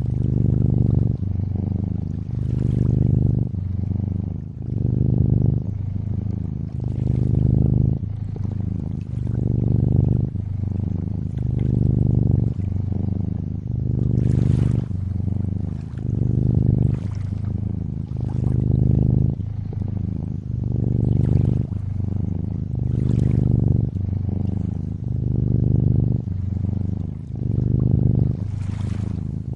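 A cat purring steadily, the purr swelling and easing about once a second with each breath, over water lapping and trickling.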